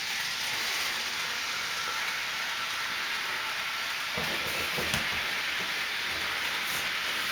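Toy electric train running around its track: a steady whirring hiss, with a few soft low knocks about four to five seconds in.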